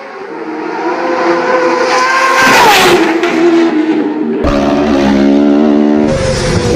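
Racing motorcycle engine at high revs getting louder as it approaches at speed, then passing with a sudden drop in pitch about two and a half seconds in. After an abrupt change, more racing bike engine sound at high revs.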